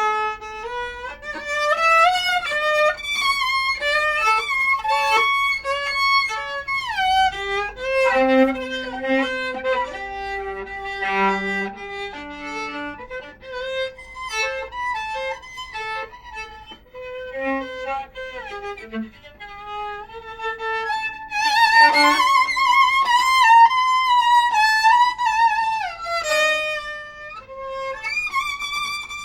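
Viola playing a bowed melody, with slides between notes, some lower notes beneath, and wavering vibrato on the louder held notes about three quarters of the way through.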